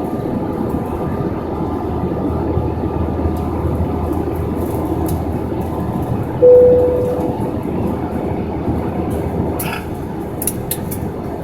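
Steady rushing noise of an Airbus A320 cabin in flight, from the engines and airflow. About six seconds in, a single cabin chime rings once and fades, the signal that goes with the fasten-seatbelt sign being switched on.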